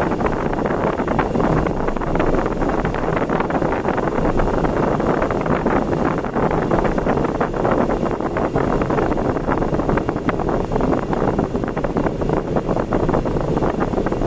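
Steady road and wind noise from a vehicle travelling at speed on an expressway.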